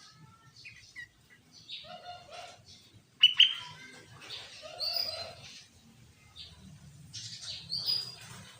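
Sooty-headed bulbul singing in short phrases, four bursts a second or two apart, the loudest starting about three seconds in.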